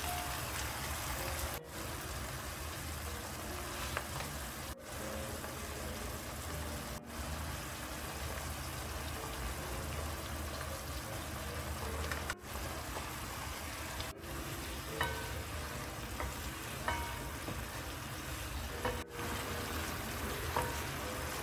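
Salted fish and sliced green chillies simmering and sizzling in a little sauce in a nonstick wok, with a wooden spatula stirring and scraping through it. The steady sizzle breaks off for an instant several times.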